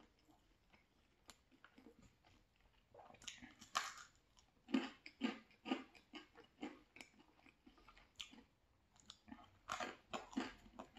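Close-miked person biting into and chewing a crisp piece of pizza crust, with crunching and mouth sounds. Quiet at first, then chewing comes in clusters of crackles starting about three seconds in, with a louder run near the end.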